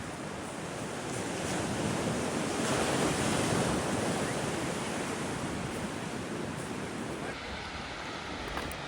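Ocean surf: a wave builds, breaks and peaks about three seconds in, then washes out and fades, with wind buffeting the microphone.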